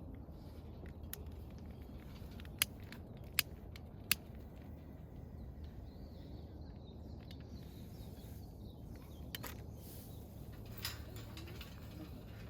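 Three sharp clicks or taps, each well under a second apart, a couple of seconds in, over a steady low background rumble.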